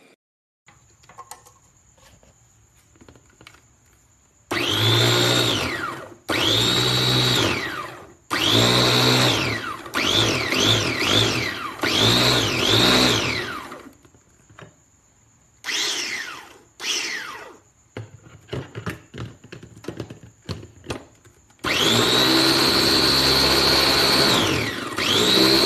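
Kaisa Villa electric food processor's motor run in pulses: on each press its whine climbs and holds, then winds down on release. There are a few quick taps in the middle and a long steady run near the end.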